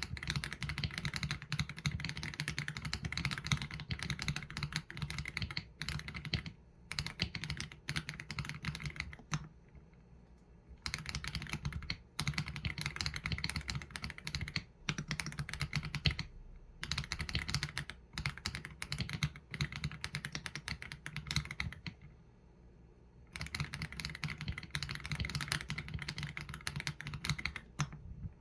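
Mechanical keyboard typing on an AULA F87 Pro with Leobog Graywood V3 linear switches and PBT keycaps: fast runs of keystrokes broken by brief pauses, twice for about a second or more.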